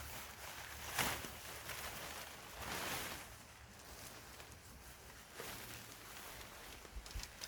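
Irregular rustling and scuffing, with a sharp swish about a second in and a longer one around three seconds.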